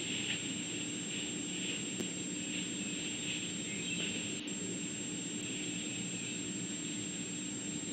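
Outdoor ambience of an insect chorus, crickets chirping in a steady, pulsing shimmer over a constant electrical hum.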